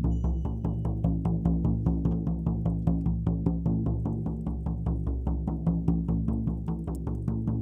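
Steady, rapid beating of a deep-toned shaman's frame drum, about five even beats a second, with a low ringing hum sustained underneath.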